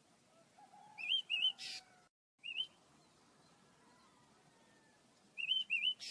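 Small birds chirping: quick rising-and-falling chirps in a pair about a second in, one more shortly after, and another pair near the end, each pair followed by a short hiss.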